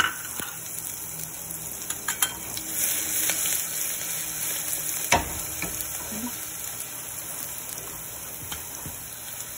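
Oil sizzling steadily in a pressure cooker as finely chopped vegetables fry in it. A few light clinks, and one louder knock about five seconds in.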